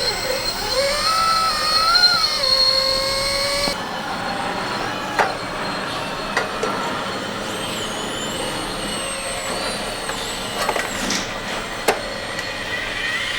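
Radio-controlled model construction machines working, their small electric motors and gearboxes whining in tones that rise and fall as they change speed, with a few short clicks and knocks.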